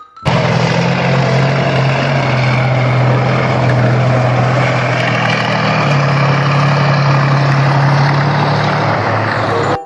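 A vehicle engine running steadily under a loud hiss, with a low hum that shifts slightly in pitch about six seconds in. It starts and cuts off abruptly.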